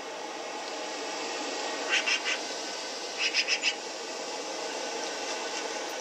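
Steady hiss of outdoor ambience with two short series of bird calls: three quick calls about two seconds in and four more about a second later, played through a television speaker.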